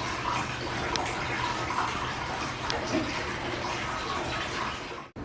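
Water splashing and sloshing, with a few faint clicks; it cuts off abruptly near the end.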